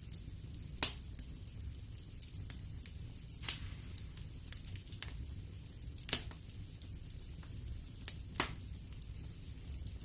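Wood fire crackling in a fireplace: frequent small crackles over a low steady rumble of the flames, with about five louder sharp pops.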